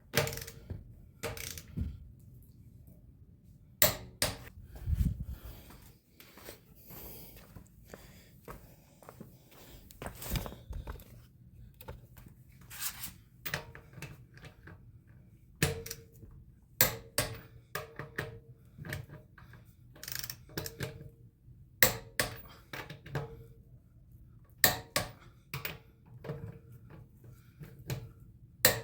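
Click-type torque wrench set to 94 ft-lb breaking over on wheel lug nuts, the click that shows each nut has reached torque, mixed with metallic knocks of the socket and tools. The sound is a string of separate sharp clicks and knocks, some with a brief ring.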